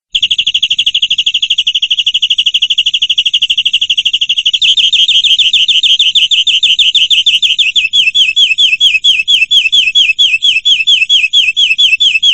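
Domestic canary singing a long, loud trill of rapidly repeated notes. About four and a half seconds in, it switches to a slower trill of downward-sliding notes, then stops abruptly.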